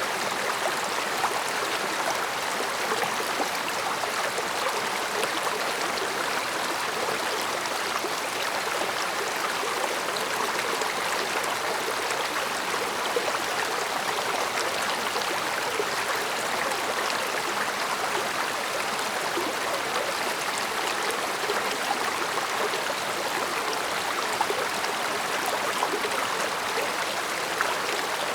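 Stream water flowing steadily, a continuous soft murmur with fine bubbling and trickling.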